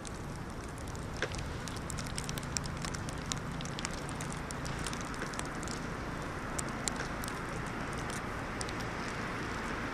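Steady wind on the microphone with many scattered small ticks and crackles, the sound of a plastic trash bag being rustled and hit by blowing snow in high wind.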